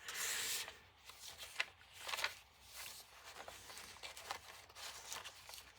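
Paper rustling and sliding as cards and pages of a handmade journal are handled, with a brief louder rustle at the start and scattered light taps after it.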